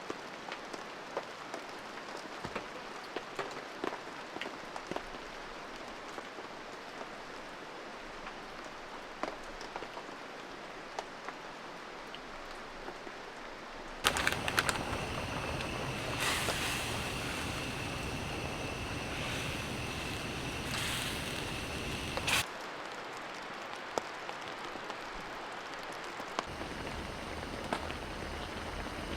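Rain falling steadily, with scattered drops ticking on a surface. About fourteen seconds in the sound turns abruptly louder, with a steady high whistle over the hiss, and drops back just as suddenly about eight seconds later.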